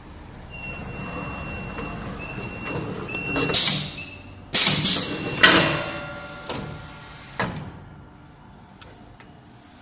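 Automatic EPDM gasket inserting machine for aluminium profiles running. A steady high whine from about half a second in stops near 3.5 s, followed by a cluster of loud, sharp, noisy bursts and clacks and two fainter knocks a little later.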